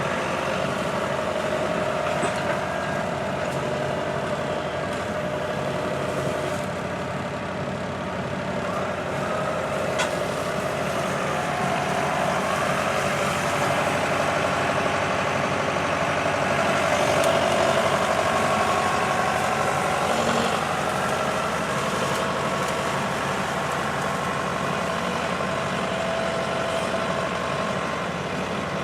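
John Deere 6420 tractor's diesel engine running under changing load as its grapple bucket works a fallen oak, the engine speed rising and falling. A single sharp crack about ten seconds in.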